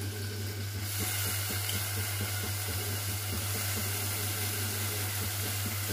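Steady sizzling hiss of dal and onions frying in oil in a pot, with faint crackles over a low steady hum. The hiss turns brighter about a second in.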